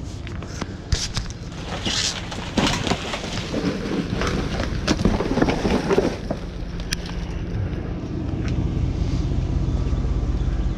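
Vehicle engine running steadily, with a spell of clattering and knocking about one to six seconds in.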